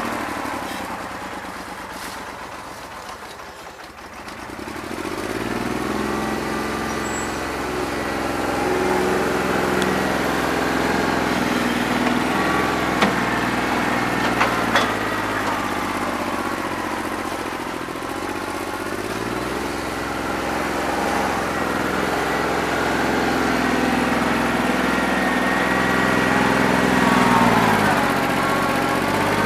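New Holland 1320 compact tractor's three-cylinder diesel engine running rough with a bad injector, on what the owner reckons is about two and a half cylinders. Its speed sags low about four seconds in, picks back up, then falls and rises again twice more, with two short clicks near the middle.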